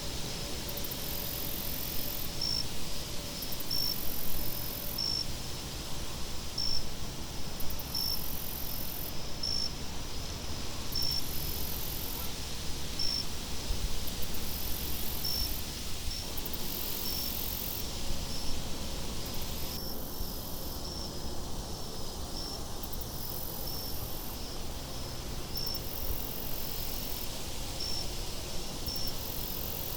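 Night insects chirping steadily: a short high chirp repeats about every second and a half, and a still higher trill pulses on and off about once a second. Under them is a low, even rumble of wind.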